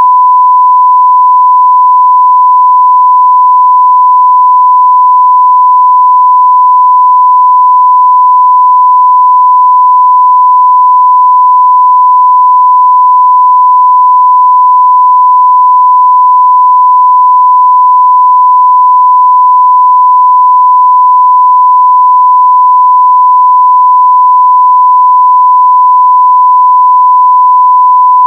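Continuous 1 kHz sine-wave test tone at full level, one pure steady pitch with no breaks.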